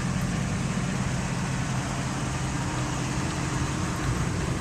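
Ford F250 pickup truck engine idling steadily, a constant low hum.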